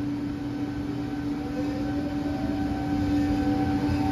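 Trenitalia Pop (ETR 103) electric multiple unit pulling slowly into the platform, a steady electric hum from its drive over the rumble of its wheels on the rails. The sound grows slightly louder as the train comes closer.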